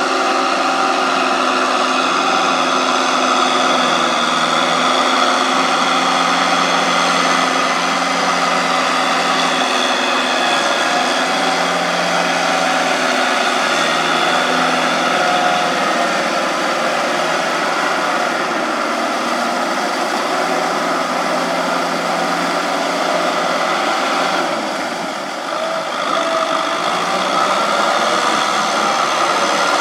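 Farm machine's engine running steadily, dipping briefly about 25 seconds in.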